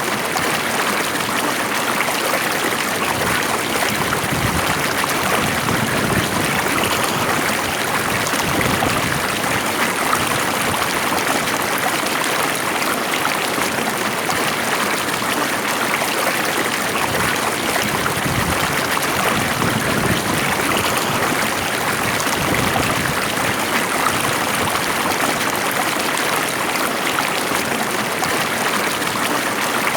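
Stream water flowing steadily, a continuous even rush with a trickling, gurgling texture.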